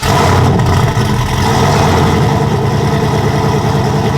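Cammed Chevrolet Silverado's engine running steadily and loud, its exhaust note even, with no revving.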